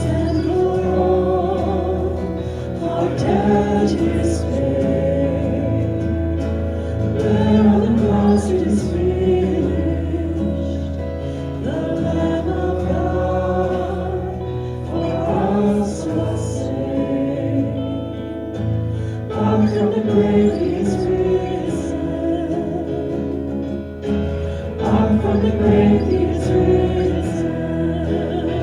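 Group of voices singing a contemporary Christian worship song with instrumental accompaniment.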